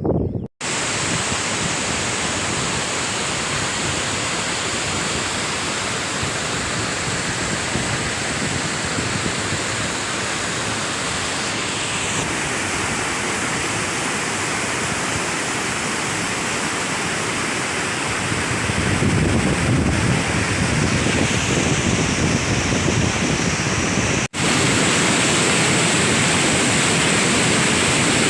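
Steady rushing roar of a river in flood, a continuous wash of water noise broken twice by a brief gap.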